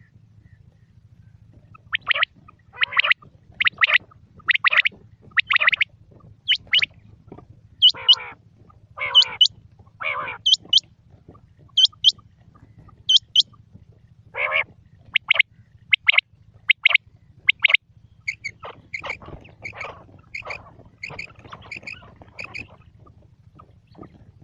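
Quail calling: a series of short, sharp call notes about one a second, some full and some high and thin, then fainter, quicker notes near the end, over a steady low hum.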